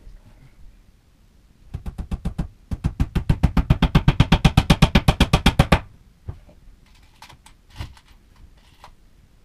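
Rapid run of hammer blows driving nails into bookcase panels, about ten strikes a second for some four seconds, growing louder midway, followed by a few scattered light knocks.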